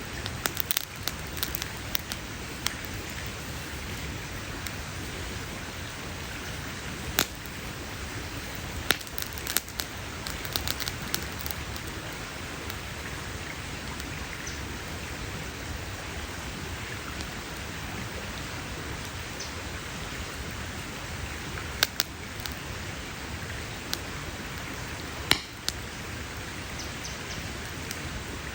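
Wood campfire crackling: a steady hiss with scattered sharp pops, a cluster of them about a third of the way in and a few louder single pops near the end.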